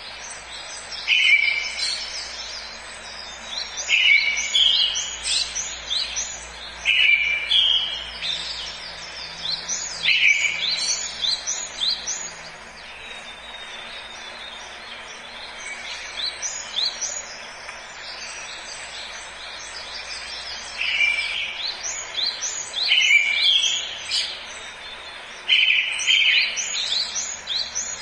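Forest birdsong: songbirds singing short phrases, one repeating a phrase about every three seconds that opens on a lower note and breaks into quick higher notes. The song thins out for several seconds in the middle, leaving a faint steady background hiss, then picks up again.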